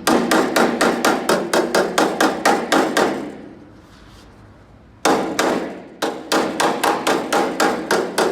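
Bodywork hammer tapping rapidly on the sheet-steel edge of a car door, about four ringing metallic strikes a second. The strikes draw the door's flange in. They pause for about two seconds midway, then resume at the same pace.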